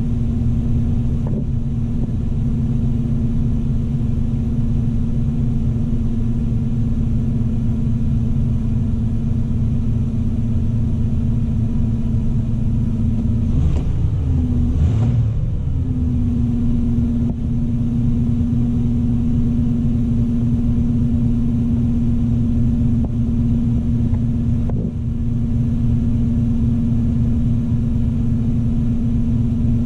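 Oldsmobile 307 V8 idling steadily during warm-up after a cold start, heard from inside the car's cabin: a low rumble with a steady hum. About 14 seconds in, the idle wavers briefly before settling again.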